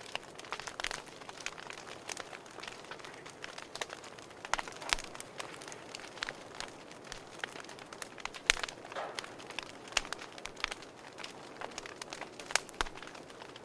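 Wood fire burning in a fireplace, crackling with a steady soft hiss and frequent irregular pops, a few of them sharper and louder.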